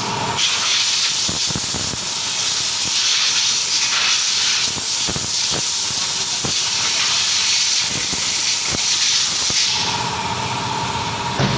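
Compressed air hissing for about nine seconds, then cutting off, with light knocks and clicks through it.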